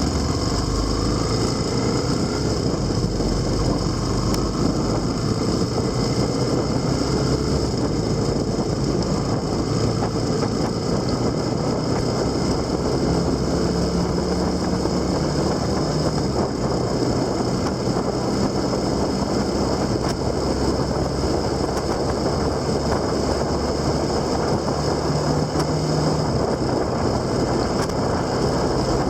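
Steady riding noise from a moving motor vehicle: wind and road rush with engine tones, the pitch climbing over the first several seconds, then holding steady.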